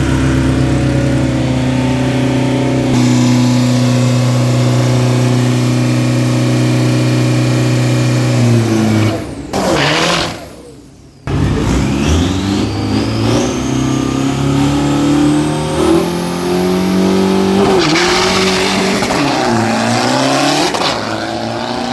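Diesel drag-racing pickup engines held at steady high revs for about nine seconds. After a brief dropout about ten seconds in, the engines accelerate hard with rising revs.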